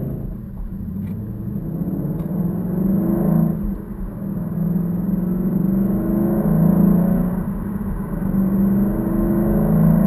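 Ford Mustang GT's 5.0-litre V8 through a Roush aftermarket exhaust, heard from inside the cabin while driving; the engine note rises and eases with the throttle, dropping back about four seconds in and again near eight seconds.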